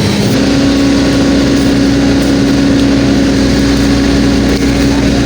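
Excavator's diesel engine running hard while digging, its pitch rising just after the start and then holding steady.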